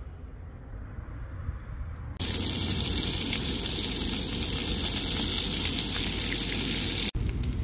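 Eel pieces frying in a pan of hot oil, sizzling steadily. The sizzle starts abruptly about two seconds in and cuts off sharply near the end.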